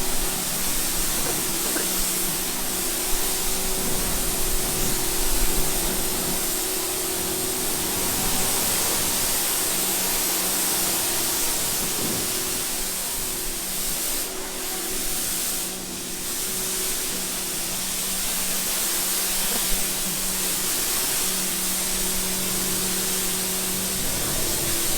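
Water spraying hard in a steady hiss while a bird enclosure is washed, over a low motor hum that cuts in and out in stretches of a few seconds.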